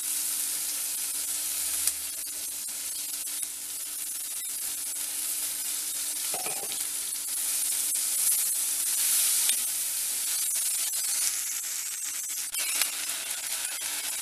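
Onions, green chillies and a heap of fresh coriander leaves sizzling in hot oil in a clay kadai, stirred with a steel spatula that clicks and scrapes against the pot.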